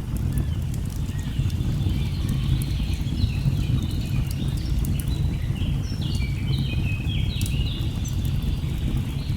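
Steady low rush of a waterfall under a rainforest bird chorus: quick runs of short high chirps that come in about a second and a half in and grow busiest near the end. Faint sharp crackles of a log fire are scattered through it.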